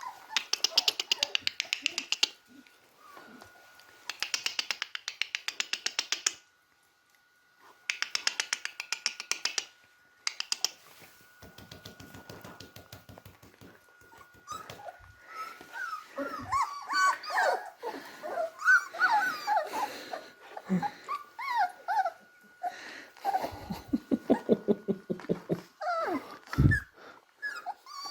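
Young beagle puppies whimpering and squeaking as they play, with a short growl near the end. Early on there are three runs of fast, even ticking, a few seconds each.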